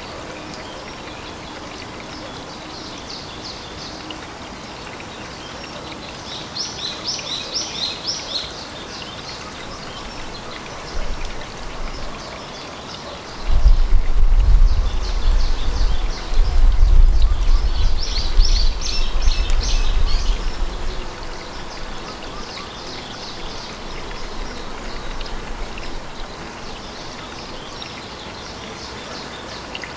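Outdoor pond ambience: a steady hiss of running water, with a small bird's rapid trilling calls coming in short bursts several times. About halfway through, a deep low rumble rises for several seconds and is the loudest sound.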